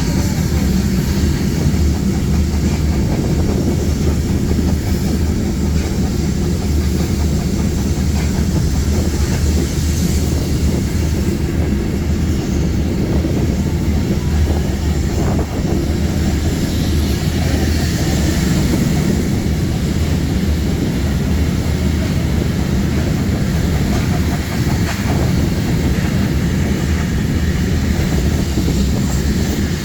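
Historic passenger train running along the line: a steady, continuous running noise of wheels and carriages on the track, heaviest in the low range.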